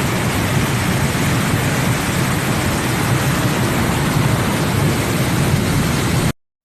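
Loud, steady rush of hurricane wind and rain, heaviest in the low rumble, cutting off suddenly near the end.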